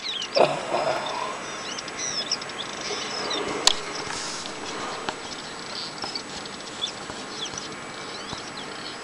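A crowd of small birds chirping, many short high calls overlapping throughout. A thump about half a second in and a single sharp click a little before the middle.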